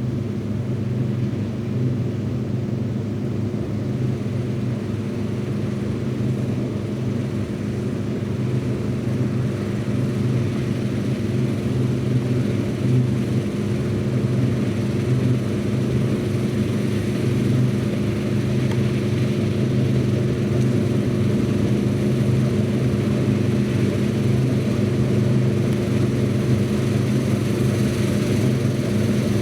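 Heavy diesel farm machinery running steadily with a low engine hum, slowly growing louder.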